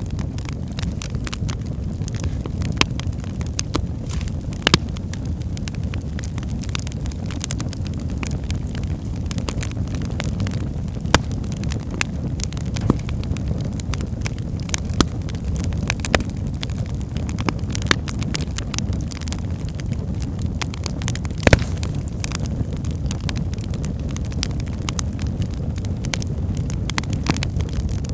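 Wood fire burning in a fireplace: a steady low rumble of flames with frequent sharp crackles and pops from the logs, a louder pop about three-quarters of the way through.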